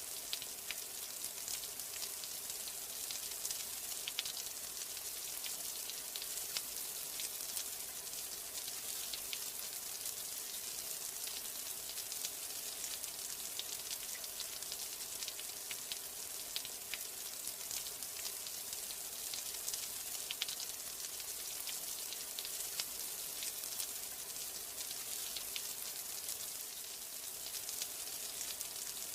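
Steady rain: an even, mostly high-pitched hiss dense with many small, sharp drop ticks.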